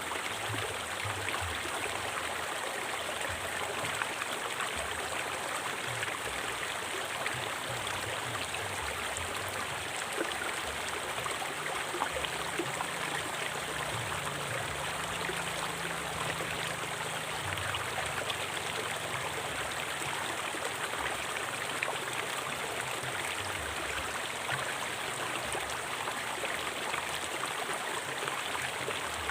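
River water flowing and splashing over rocks, a steady rushing with small gurgles and drips.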